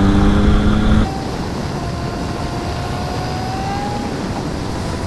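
Triumph Speed Triple's three-cylinder engine accelerating, its note climbing, then the throttle shuts about a second in and the level drops suddenly. What follows is steady wind and road noise with the engine on overrun and a faint whine rising slowly in pitch.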